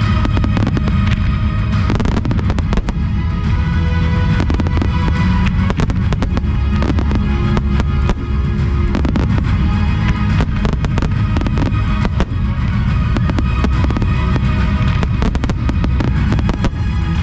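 Fireworks finale barrage: a dense, continuous run of aerial shell bangs and crackling, with music playing along.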